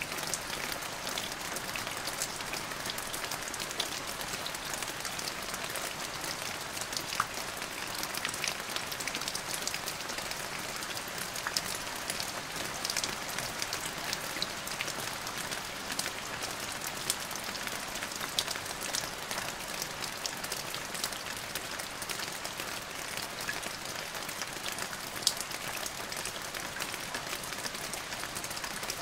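Steady rain falling on a hard surface: a continuous hiss, dense with the sharp ticks of individual drops, a few of them louder.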